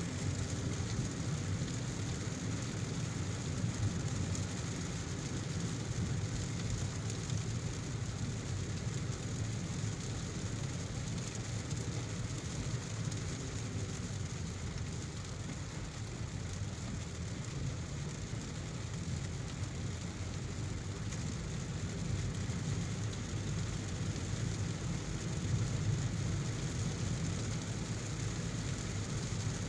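Steady heavy rain mixed with the low, even road noise of a car driving on a wet road.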